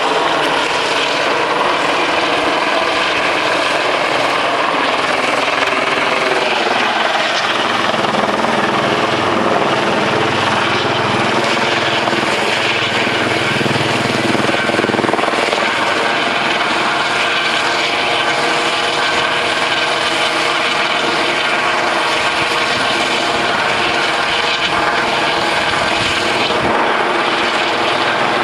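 Helicopter hovering low overhead: a steady, loud rotor and engine drone.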